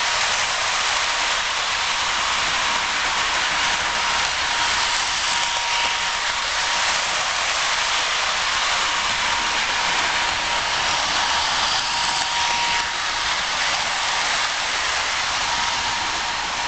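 Toy Christmas train running on its track: a steady whirring rattle with a faint high tone held throughout.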